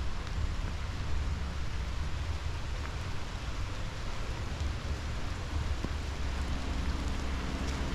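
Steady outdoor rushing noise with a deep low rumble. Near the end a vehicle's engine hum starts to come in.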